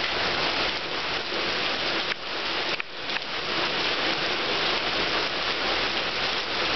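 Heavy rain pouring down steadily, a dense hiss of water that dips briefly a little under three seconds in.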